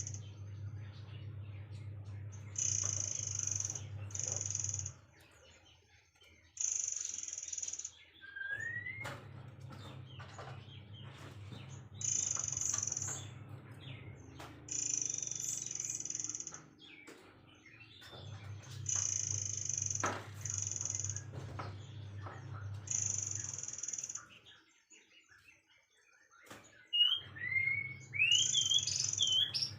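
Birds calling: high, buzzing trills about a second long, repeated every few seconds, with a few rising whistled notes near the end. A low hum comes and goes underneath.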